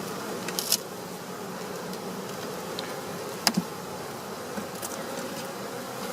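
Honey bees buzzing in a steady drone around an open hive, with a few short clicks of hive parts being handled.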